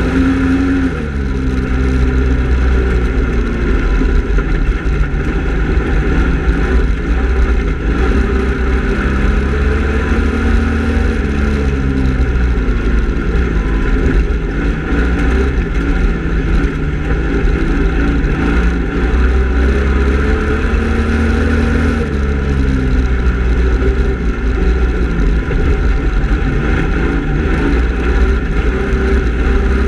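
Speedway race car engine running hard around the track. Its pitch drops off and then climbs again in a repeating cycle about every ten seconds, like lifting for the turns and accelerating down the straights, over a constant low rumble.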